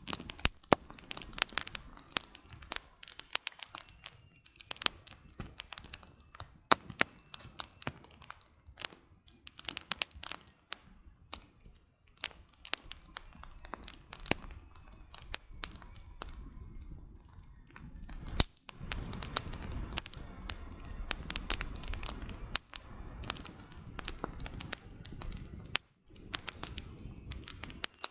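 Campfire burning, its firewood crackling and popping in quick irregular snaps over a low rush of flame that grows louder for several seconds in the second half.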